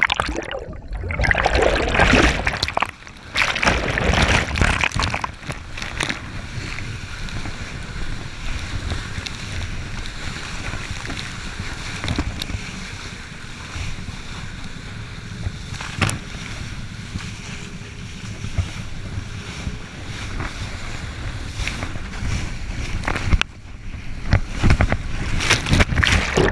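Water rushing and splashing with wind buffeting a GoPro's microphone during a wakeboard tow, over the running of a Yamaha WaveRunner XL 1200 jet ski. It is loudest and most broken in the first few seconds and again near the end, and steadier in between.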